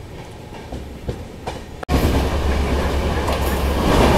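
Passenger train running on the track, with the clack of wheels over rail joints. About two seconds in it cuts abruptly to a much louder, heavier running rumble with further wheel clacks.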